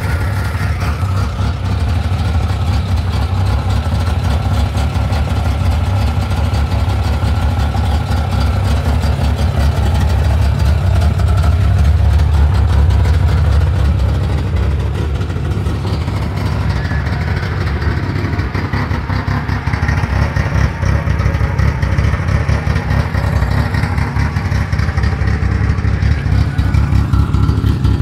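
A car engine running at idle with a deep, steady exhaust rumble, heard close to the car.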